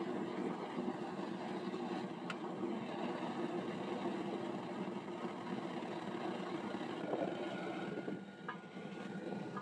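Gas-fired casting furnace burner with its blower fan running with a steady roar, with a couple of sharp clicks.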